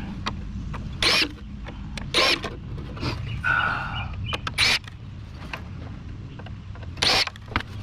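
Cordless drill/driver running in short bursts, backing screws out of a window air conditioner's sheet-metal housing, four quick whirs with a brief screw squeal between them.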